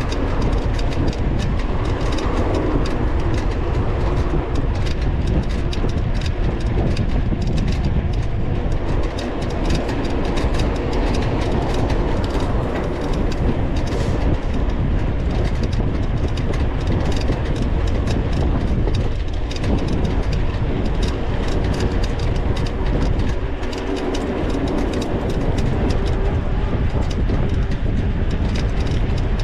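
Mountain bike ridden over rough ground, heard from a camera mounted on the bike or rider: a steady low rumble with a dense, constant rattle of clicks and knocks from the bike and its tyres.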